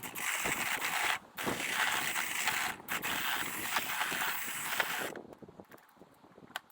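Rotary power-sweeping head spinning and scraping inside a masonry chimney flue: a dense rattling scrape, broken twice briefly, that stops about five seconds in, leaving only a faint background.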